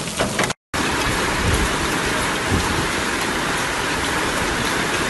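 Heavy rain pouring down steadily, a dense even hiss, cut off for a moment about half a second in.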